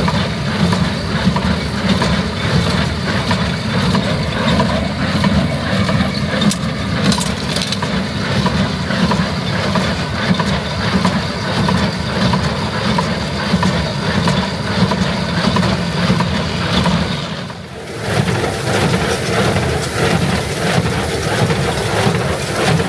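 Heavy farm machinery working a straw field, a diesel engine running under load with a steady rough churn. About three-quarters of the way through the sound cuts to a different, thinner and hissier machine noise.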